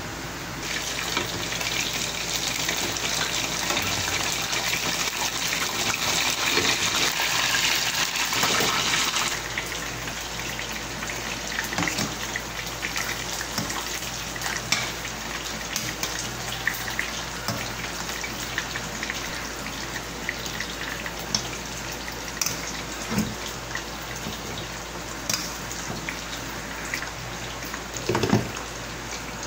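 Flour-coated chicken pieces going into hot oil and frying with a loud, steady sizzle for about the first nine seconds, which then cuts off. After that, pork pieces cooking in a brown sauce in a stainless pan give a softer sizzle, with occasional clicks and scrapes of a spatula against the pan.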